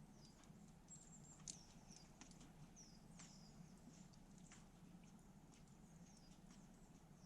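Faint crackling of a wood campfire, with a few sparse sharp pops. Many short, high, thin chirps that fall in pitch recur every half second or so.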